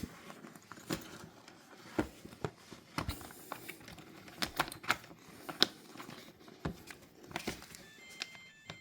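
Irregular clicks and knocks of plastic parts being handled and fitted back into the base of a KitchenAid dishwasher, with a short electronic beep from the dishwasher near the end, the error beep it keeps sounding with the clean light on.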